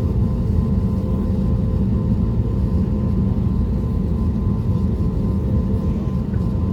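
Airbus A320neo cabin noise on the ground before takeoff, with its CFM LEAP-1A engines at idle: a steady low rumble and a faint steady whine.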